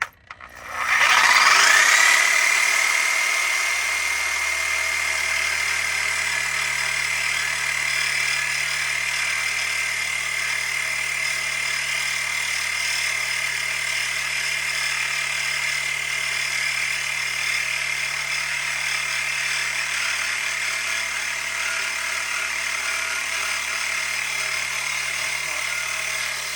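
Power tool spinning up and then running steadily with a loud, high whine over a hiss, with a low steady hum underneath from a few seconds in.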